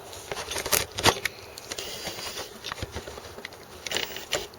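Irregular clicks, taps and light rustling of handling at close range; the truck's engine is not yet running.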